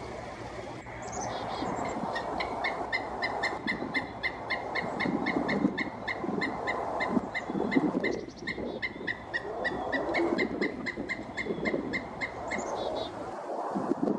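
A bird calling a long, fast series of short, evenly repeated notes, about four to five a second. The series starts about two seconds in and stops shortly before the end.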